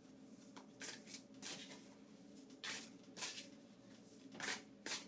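Tarot cards being handled: several short, soft card sounds, scattered unevenly over a few seconds.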